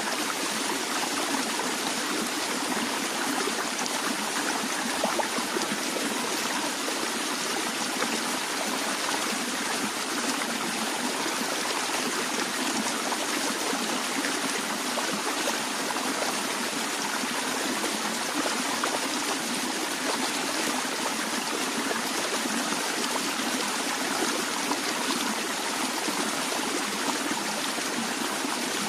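A stream flowing steadily over stones, an even rush of water with small trickles and splashes throughout.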